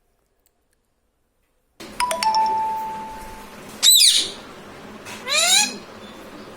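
Silence, then about two seconds in a bell-like ding that rings and fades. Next comes a loud, short, high screech from an Indian ringneck parrot, and then a shorter rising call.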